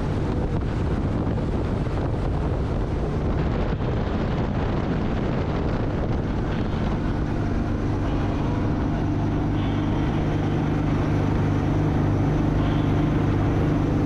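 Boat engine running steadily under way, with wind noise on the microphone; the engine hum grows stronger about seven seconds in.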